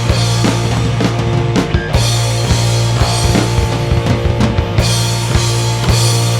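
Rock band playing live, instrumental: heavy distorted guitars and bass over a driving drum kit with steady cymbals.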